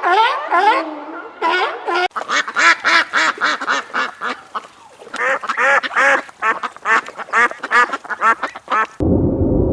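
Ducks quacking, many short quacks in quick succession, several a second, after about two seconds of short rising calls. Near the end it cuts suddenly to a steady low rumble.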